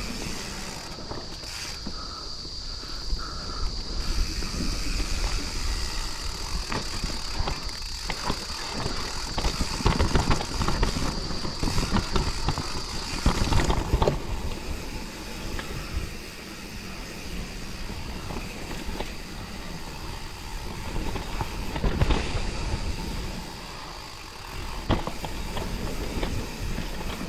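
Mountain bike being ridden on a wet, slippery dirt trail: continuous tyre and frame rattle with irregular knocks and jolts, louder in the middle. A steady high tone runs through the first half and stops about halfway.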